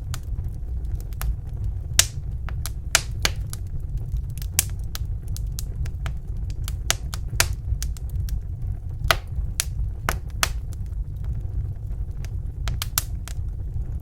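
Wood fire in a fireplace crackling: irregular sharp pops and snaps, a few a second, over a steady low rumble.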